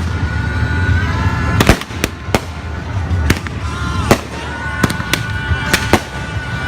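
Fireworks going off: a string of about ten sharp bangs at irregular spacing.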